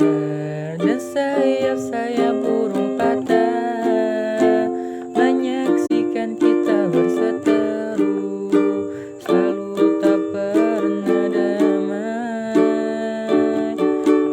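Music: a ukulele playing a song accompaniment, with a voice carrying the melody over it.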